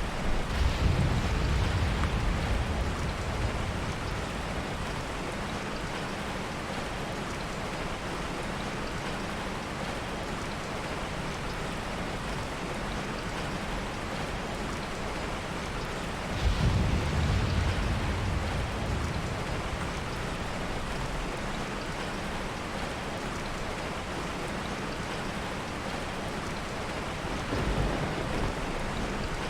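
Heavy rain falling steadily, with soft thunder rumbling low three times: at the start, about halfway, and near the end.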